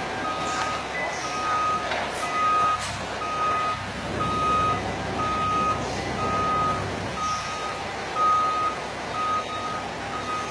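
Electric reach truck's warning beeper sounding a steady single-pitch beep at an even pace, a little faster than once a second, over the machine's background noise, with two sharp clicks about two seconds in.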